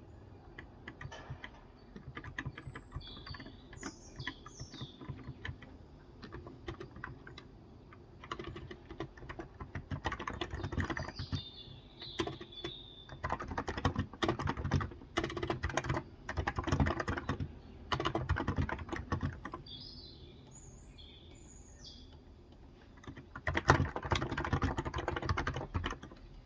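Typing on a Cox Endeavor tenkeyless keyboard with 35 g electrostatic capacitive (Topre-style) switches, in irregular bursts of keystrokes with short pauses. Birds chirp faintly in the background a few times.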